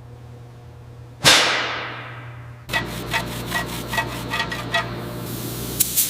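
A single sharp strike about a second in that rings and dies away, then a run of quick, irregular metallic taps and clicks, typical of hand-tool work in a workshop.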